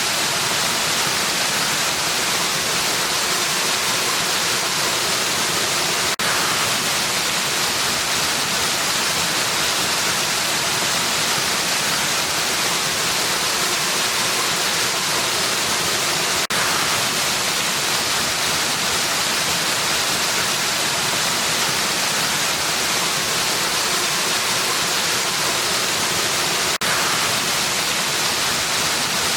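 Steady rushing hiss of a waterfall, full and even, with three brief dips in level about ten seconds apart.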